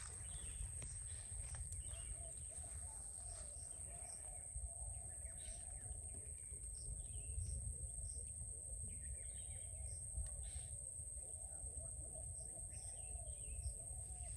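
Outdoor ambience with birds chirping in short, scattered calls over a steady high-pitched whine and a low rumble.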